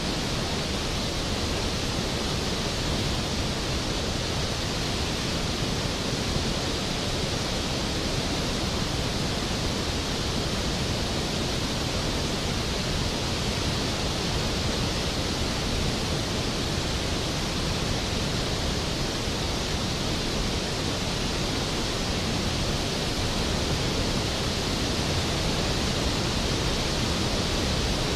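Skógafoss waterfall: a large volume of water falling and crashing into its plunge pool, a steady, even rush with no breaks.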